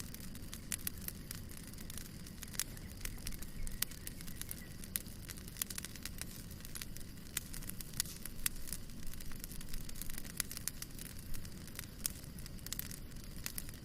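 Campfire crackling: burning wood giving off many irregular sharp pops and snaps over a low steady rumble.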